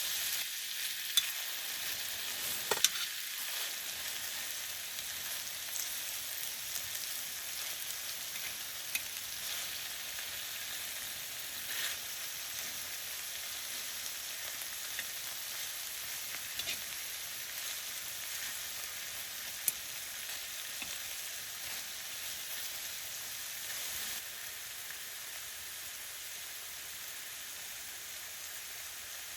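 Food frying in a pan: a steady sizzle with scattered pops and crackles, a few sharper clicks standing out.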